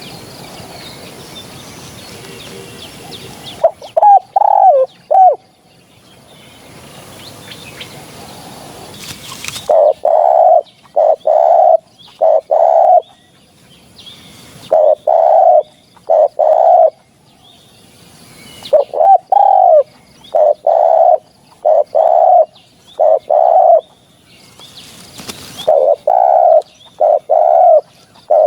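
Spotted dove cooing: short phrases of a few clipped coos repeated over and over, with a pause of several seconds after the first phrase, then steady repeats.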